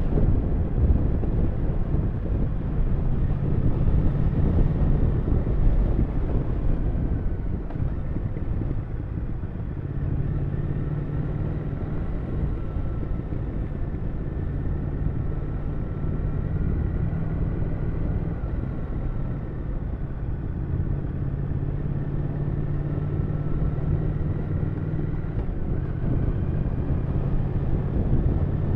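Triumph Thruxton 1200 RS parallel-twin engine running at fairly steady revs under way, with short changes in pitch a few times, over wind rushing past the microphone.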